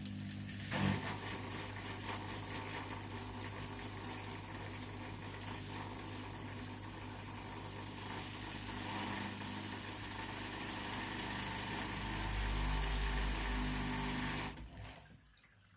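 Washing machine running with a steady motor hum, a single knock about a second in, and a deeper rumble building near the end before the motor cuts off suddenly.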